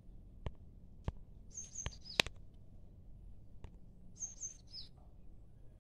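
A bird calling twice, each call a quick pair of high notes followed by a falling note, about two and a half seconds apart. Several sharp clicks are scattered through it, the loudest a little after two seconds, over a faint low hum.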